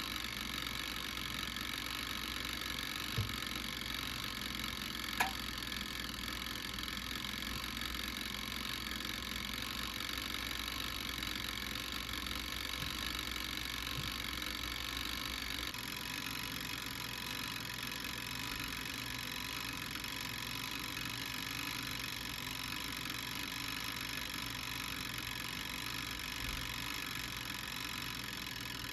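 Steady mechanical hum with a faint hiss, and two small clicks a few seconds in. The hum's low end drops slightly a little past halfway.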